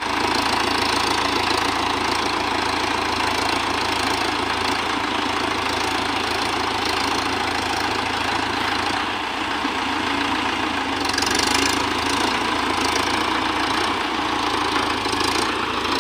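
Mahindra 585 DI tractor's diesel engine running steadily.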